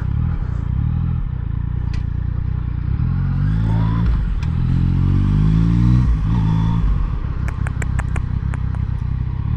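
Yamaha MT-09's inline three-cylinder engine running at low speed. Its pitch climbs twice as the bike pulls away and eases off in between. A string of light clicks comes near the end.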